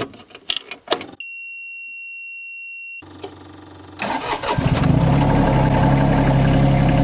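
A few clicks, then a steady high beep for about two seconds. About four seconds in, the Yanmar ViO25 mini excavator's diesel engine cranks and starts, settling into a steady idle.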